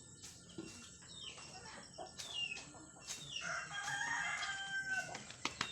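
A rooster crowing once, a long call starting about three seconds in, among scattered short chirps and clicks.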